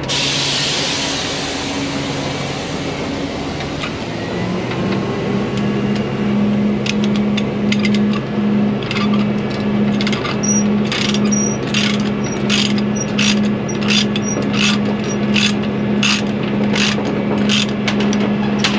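A burst of air hiss, then a heavy wrecker's winch and bed mechanism running with a steady, evenly pulsing hum and regular clicking a little under two times a second as the truck is unloaded.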